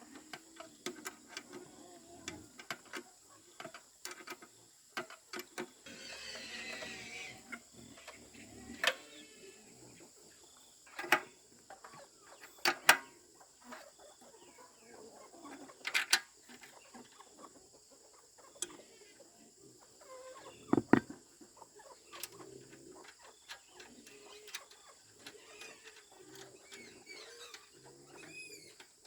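Scattered sharp clicks and knocks, like work on a pump, with chickens clucking and calling among them.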